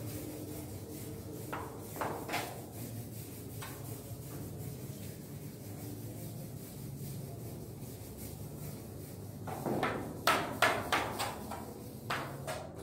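Blackboard duster wiped across a chalkboard in short strokes: a few scattered strokes around two seconds in, then a quick run of louder strokes about ten seconds in and two more near the end.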